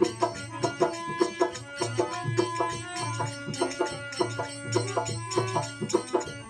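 Instrumental passage of a Rajasthani desi bhajan: a plucked veena-style string instrument with a hand drum keeping a steady beat.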